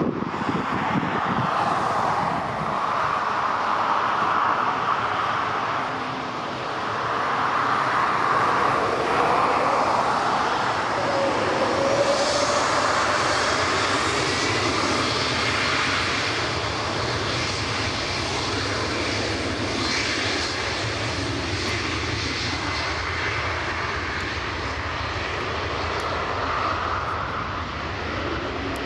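Jet airliner's engines running steadily and loud, with a faint whine that slides in pitch about midway.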